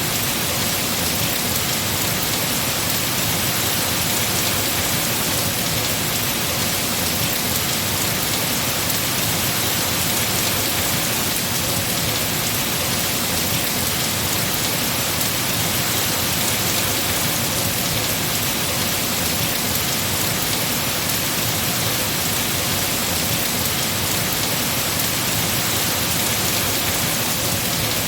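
Heavy rain falling steadily on trees, an even, unbroken hiss of downpour.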